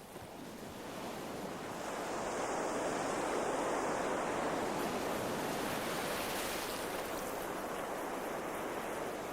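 Ocean surf breaking against the shore: a steady rush of waves that builds over the first couple of seconds and then holds.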